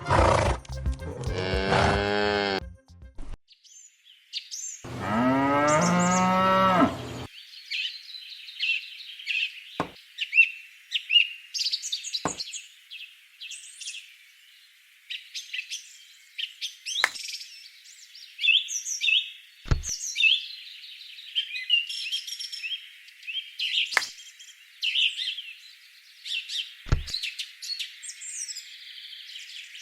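A cow mooing in a long call with a falling pitch, after a short burst of other animal calls, then birds chirping with scattered clicks for the rest of the time.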